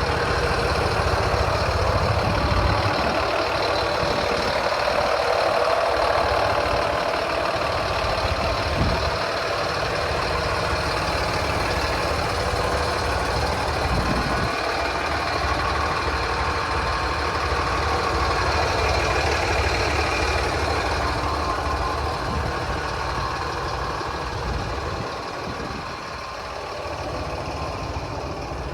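Diesel engine of a 2007 Sterling Acterra truck idling steadily.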